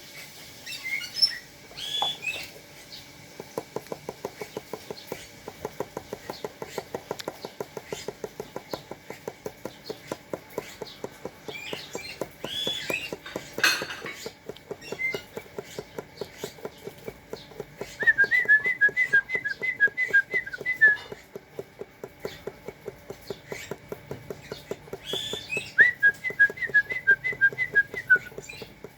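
Rapid, steady small taps, several a second, typical of a spotted dove pecking seed. Short high chirps and two quick trilled whistles come through twice, in the second half.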